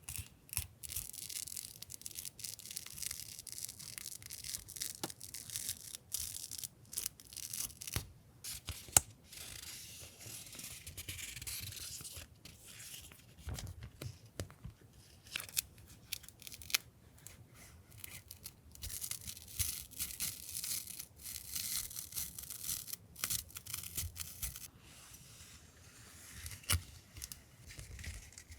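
Paper and plastic stationery packaging being handled and opened by hand: rustling and tearing, with many small clicks and taps.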